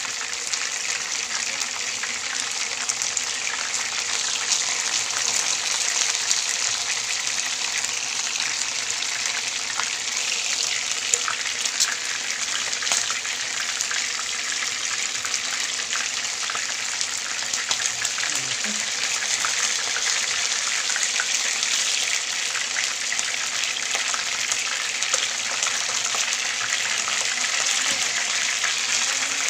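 Floured chicken pieces shallow-frying in hot oil in a pan: a steady sizzle with scattered crackles and pops.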